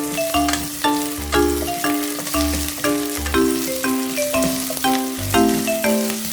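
Food sizzling in a frying pan under background music: a steady frying hiss beneath a run of short bell-like notes over a bass line.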